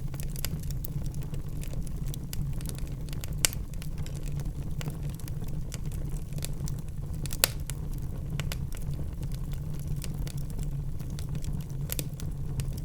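Wood fire burning in a fireplace: a steady low rumble with frequent sharp crackles, and two louder pops about 3.5 and 7.5 seconds in.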